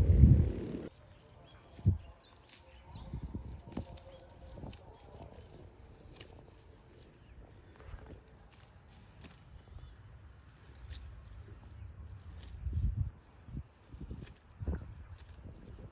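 Scattered low thuds and shuffling steps over a steady high insect drone, with a loud low rumble in the first second and a sharp thump about two seconds in.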